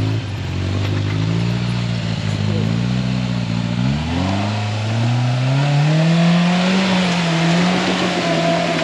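Polaris RZR Pro R side-by-side's engine running under load on a trail, its pitch rising and falling with the throttle, then climbing sharply about four seconds in and holding higher, over the noise of tyres on the dirt.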